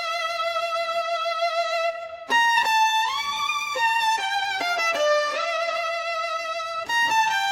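Solo violin playing a slow, lyrical melody with vibrato. A long held note breaks off about two seconds in, then a new phrase begins with a note sliding upward, and another phrase starts near the end.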